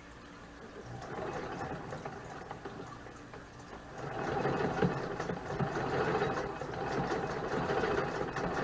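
Vintage Singer sewing machine stitching through fabric. It starts up about a second in and runs louder from about four seconds in.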